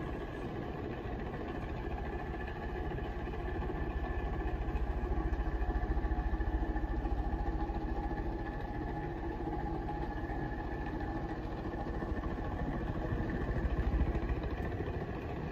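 S.M.C A52 52-inch ceiling fan running on high speed: a steady hum with several held tones and a rapid low flutter that sounds like a helicopter. The bearings are ridiculously loud, which the owner puts down to bad or dry, unlubricated motor bearings.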